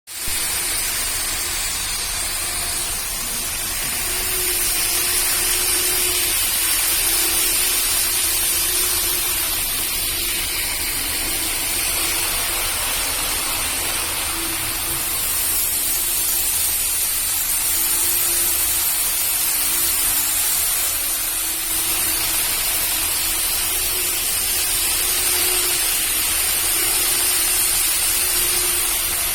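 Model Shinkansen trains running on a layout: a steady whirring hiss of small wheels on track and motors, swelling and easing slowly as trains pass.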